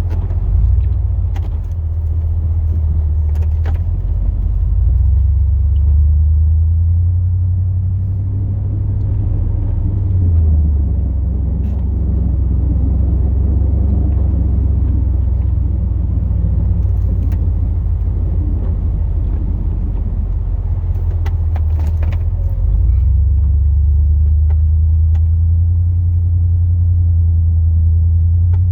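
Plow truck's 8.1-litre big-block gas V8 running steadily as the truck drives, a low drone that drops in pitch about a third of the way through and rises again near the end.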